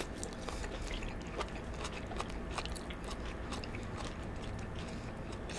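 Close-miked chewing of homemade chow mein noodles, with many small wet mouth clicks.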